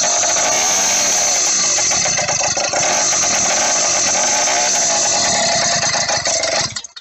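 80cc two-stroke motorized-bicycle kit engine running loud through an open stinger exhaust, its pitch rising and falling. The sound cuts off abruptly near the end.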